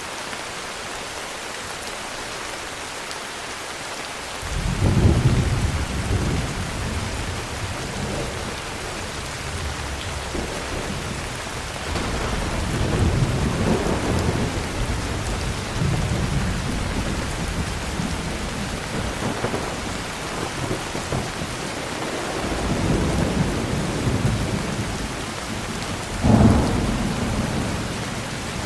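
Heavy rain falling steadily. About four seconds in, thunder starts rumbling and rolls on in swells, with a sharper, louder thunderclap near the end.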